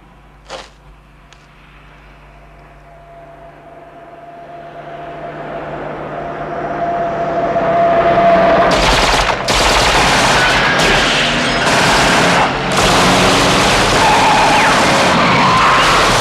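Sound builds steadily over several seconds, then rapid automatic gunfire breaks out about halfway in: a long, loud, dense fusillade that keeps going to the end, with a couple of brief breaks. It is a burst of shots fired at a car in an ambush.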